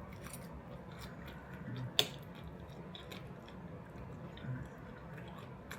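A person chewing a mouthful of enchilada, with soft wet mouth clicks throughout. One sharper click comes about two seconds in.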